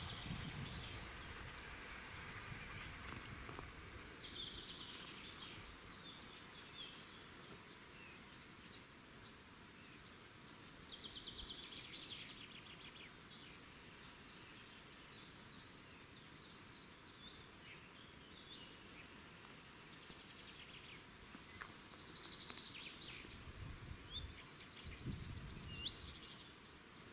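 Several small birds singing in forest, short chirps and quick rattling trills, over quiet background noise. A few soft low rumbles come near the start and again near the end.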